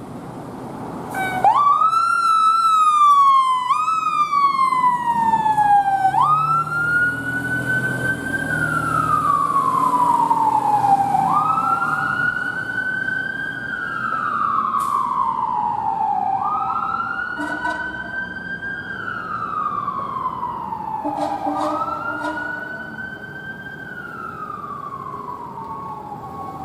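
Fire engine siren wailing. It starts with two quick short sweeps, then settles into slow cycles of about five seconds each, every cycle rising fast and falling gradually.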